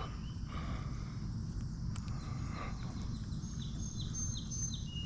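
A songbird calling a run of short, quickly repeated falling notes in the second half, then a thin high whistle, over a steady low outdoor rumble.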